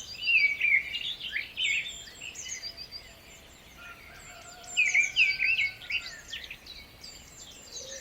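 Songbirds singing and chirping: quick, high, sliding notes, loudest in two bursts, one near the start and one about five seconds in, with scattered chirps between.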